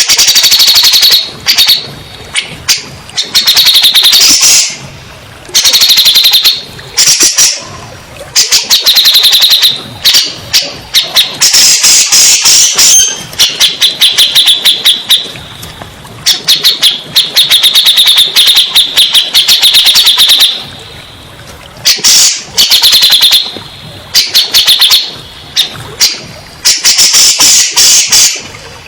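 Cucak jenggot (grey-cheeked bulbul) singing loudly in long, rapid runs of chattering, whistled notes, with brief pauses between phrases.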